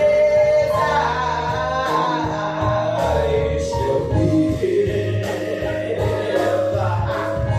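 Gospel singing: a solo voice holds and bends long notes over an instrumental accompaniment with a pulsing bass line.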